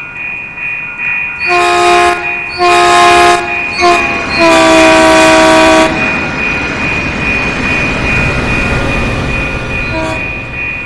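Caltrain F40PH train's horn sounding the grade-crossing signal: two long blasts, a short one, then a long one, over a steady high ringing tone. The train's rumble then builds as it passes, with one more short toot near the end.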